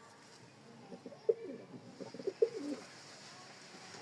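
Domestic pigeon cooing: a short run of low coos from about one second in to near three seconds.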